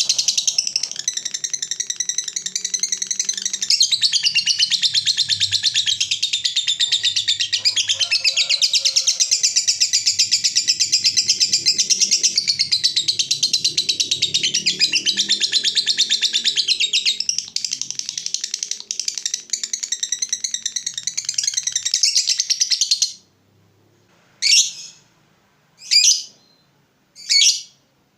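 Lovebird singing a long, unbroken, rapid high-pitched chatter (the 'ngekek panjang' that keepers prize). It cuts off suddenly about 23 seconds in, followed by three short, separate chirps about a second and a half apart.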